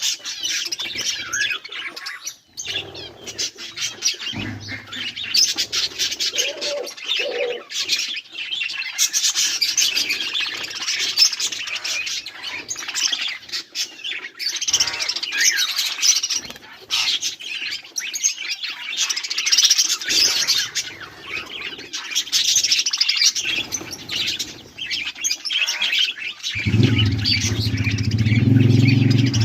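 A flock of budgerigars chirping and chattering without a break. A low, steady hum comes in near the end.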